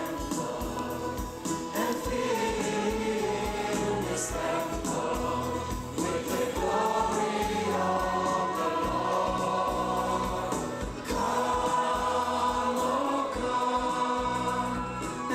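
Choir singing a gospel worship song over instrumental accompaniment with a steady beat.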